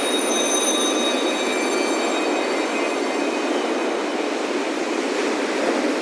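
Steady rush of ocean surf with wind chimes ringing over it: a cluster of high metal tones sounds at the start and fades over about three seconds, with a few more tones joining briefly.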